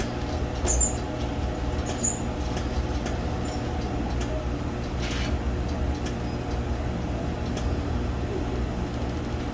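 Laser welding machine running with a steady low hum, its laser firing as irregular sharp clicks, roughly one a second, some louder than others.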